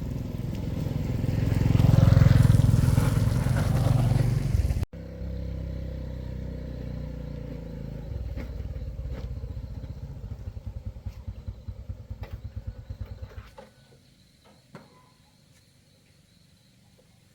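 A small engine running, swelling louder about two seconds in and breaking off abruptly about five seconds in. It then runs on with an uneven pulsing beat and stops about thirteen seconds in, leaving a few light clicks.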